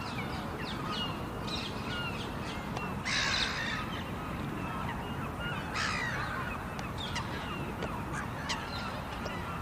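A flock of birds giving many short calls over a steady low rumble, with two brief hissing rushes about three and six seconds in.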